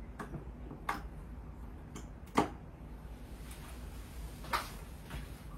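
Handling an iMac while its power cord is plugged in: a few separate clicks and knocks, the loudest about two and a half seconds in.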